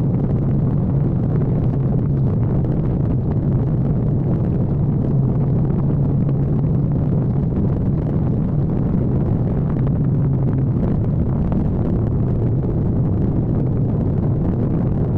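Kawasaki ZX-14R sportbike's inline-four engine running at a steady cruise, its pitch holding even with no revving or shifting.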